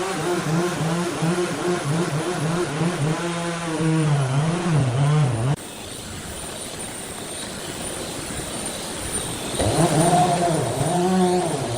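An engine running with its pitch wavering up and down as the load or throttle changes; it cuts off abruptly about halfway through and comes back near the end after a quieter stretch.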